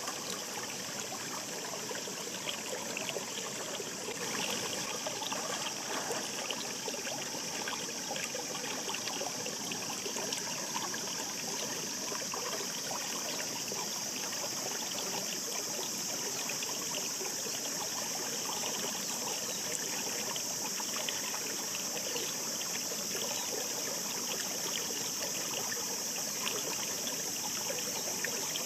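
Shallow mountain stream babbling over rocks: a steady wash of running water full of small splashes and trickles.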